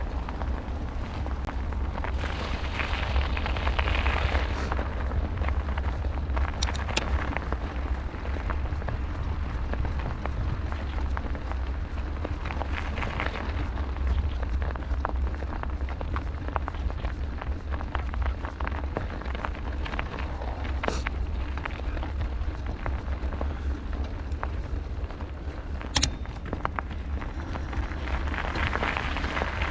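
Wind buffeting the microphone with a deep steady rumble while a bicycle rolls along, its tyres giving a rushing noise that swells and fades, and a few sharp clicks.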